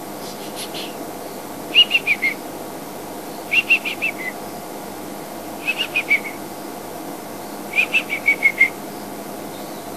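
A bird calling: short phrases of four to six clear whistled notes, each phrase dropping slightly in pitch at the end, repeated about every two seconds.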